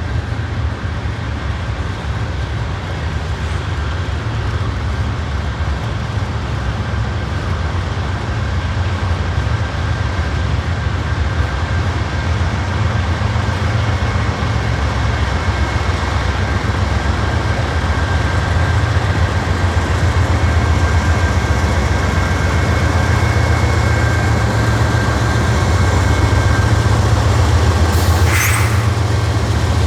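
Diesel-electric freight locomotives running, a deep steady engine drone that grows gradually louder, with a faint high whine above it. A short burst of noise comes near the end.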